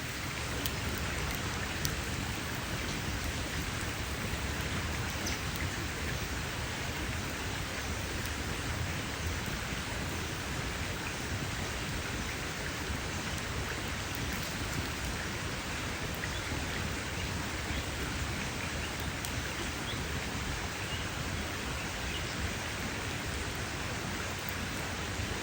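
Campfire crackling steadily: a dense, even hiss of burning wood with a few small sharp pops scattered through it.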